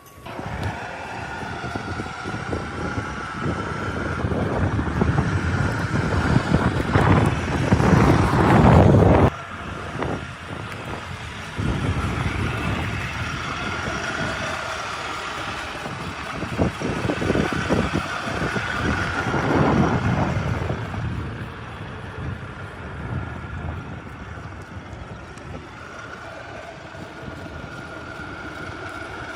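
A motor vehicle running and driving past, a rumble with a faint steady whine over it. It swells to its loudest about nine seconds in and breaks off suddenly, then swells again a little before twenty seconds.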